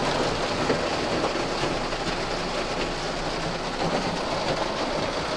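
A stream of water pouring and splattering steadily onto a car, sounding like heavy rain drumming on its body.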